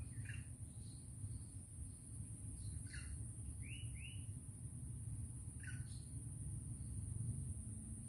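Wild birds calling: a few short chirps spaced a second or more apart, with a quick pair of whistled notes about four seconds in. A steady low rumble sits underneath.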